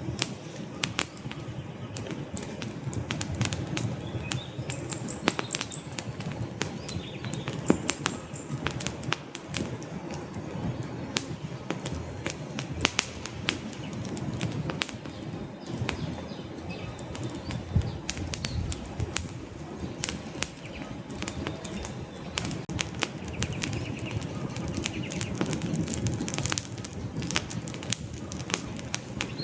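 Log fire burning: frequent sharp crackles and pops over a low, fluttering rumble of flames.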